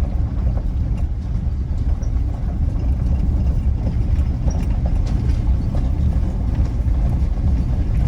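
Ford Ranger driving along a back road: a steady low rumble of engine and road noise, with a few faint light clicks through it.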